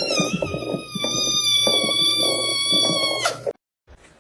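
A cat giving one long, drawn-out meow held at a steady high pitch and sagging slightly, cut off abruptly after about three seconds.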